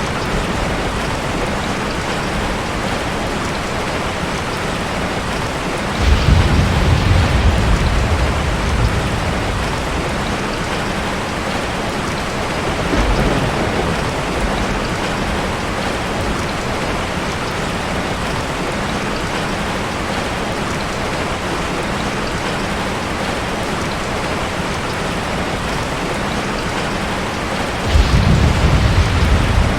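Steady heavy rain falling on a forest. Deep low rumbles swell up about six seconds in, briefly again near the middle, and once more near the end.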